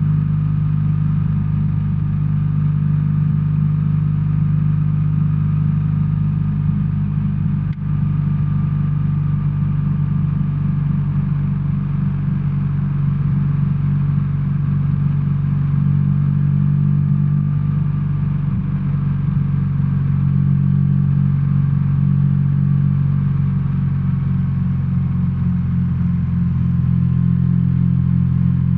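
BMW R1300R's boxer-twin engine running steadily at low revs, its pitch nearly constant. A brief click and short dip in level come about eight seconds in.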